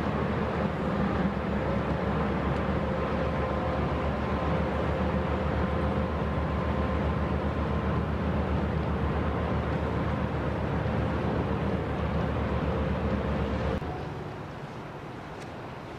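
Diesel engine of a passing Rhine inland cargo ship: a low, fast throb with a steady whine above it. The sound drops sharply and becomes much quieter near the end.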